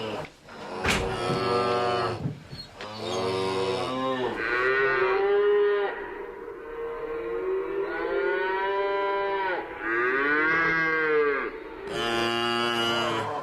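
Cows mooing: a string of about seven long, drawn-out moos one after another, each rising and falling in pitch, some deep and some higher.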